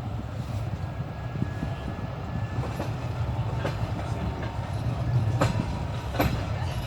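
Train wheels clattering over rail joints, heard from on board a moving train: a steady low rumble with a few sharp clicks, the loudest just past the middle.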